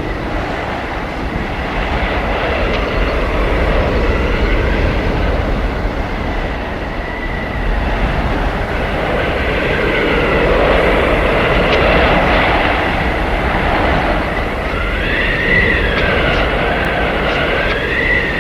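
Howling blizzard wind: a steady rush that swells in gusts, with whistling tones that rise and fall in arcs, strongest near the end.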